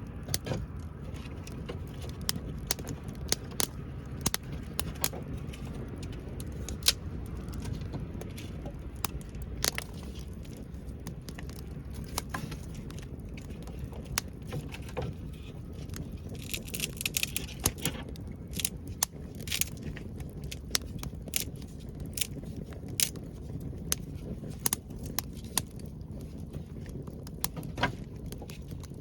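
Wood fire crackling: irregular sharp pops and snaps over a low, steady rumble, with a brief hiss partway through.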